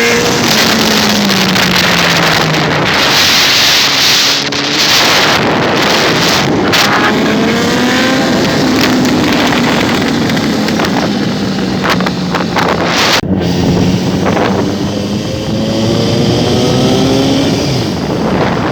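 Suzuki GSX-S750's inline-four engine running through a loud exhaust, its pitch climbing and falling several times as it revs up and eases off.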